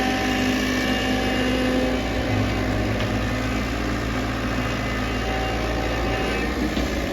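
Diesel engine of a JCB 3DX backhoe loader running steadily, its note changing slightly about two seconds in.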